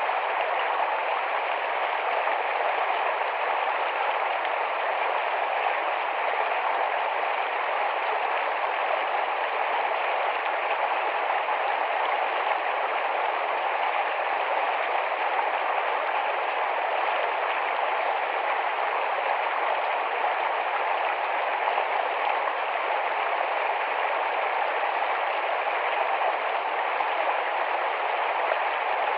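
Shallow, fast-flowing forest stream: water rushing and babbling over rocks in a steady, even wash.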